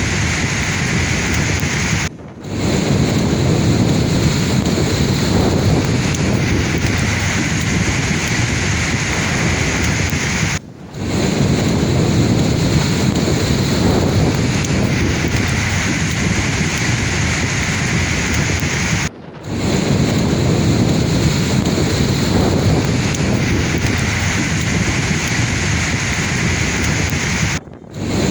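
Sea waves surging and washing in a steady, loud rush, with wind buffeting the microphone. The sound cuts out briefly and returns about every eight and a half seconds, four times in all.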